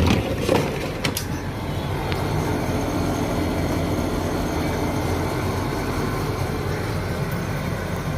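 A machine switches on abruptly with a few knocks in the first second, then runs with a steady, even rushing noise.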